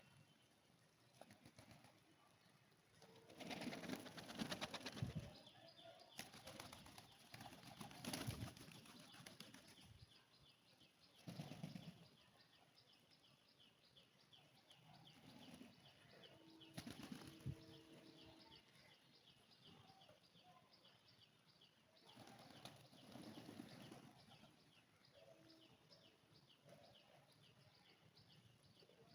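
Pigeons' wings flapping in several short bursts as birds take off and land, the longest about two seconds. A fast, even run of high chirps goes on underneath most of the time.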